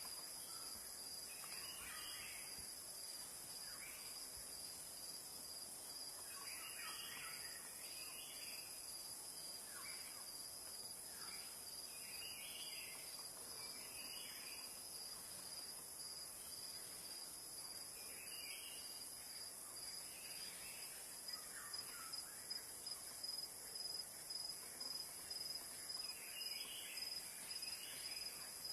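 Faint steady high-pitched insect trilling, cricket-like, with soft chirps every second or two; from about two-thirds of the way in, a regular pulsing joins it.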